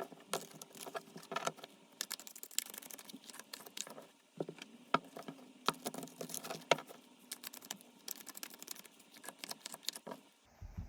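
Tarot cards being shuffled and handled: a run of quick, irregular flicks and taps.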